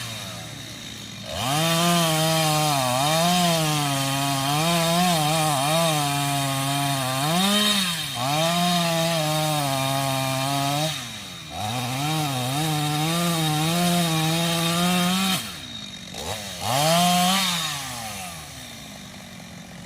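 Chainsaw cutting wood, its engine held high with the pitch wavering up and down under load. It runs in three long stretches with brief drops in between. One last short rev comes near the end before it falls back.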